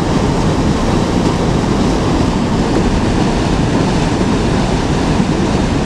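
River water rushing steadily past, a constant loud noise.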